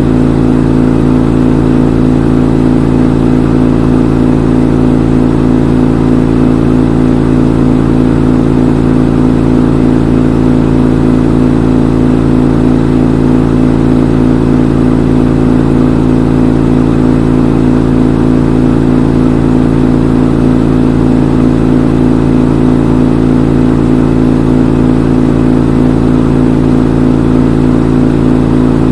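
Front-load washing machine on its spin cycle: the drum spinning at a steady high speed, a loud, even hum with no change in pitch.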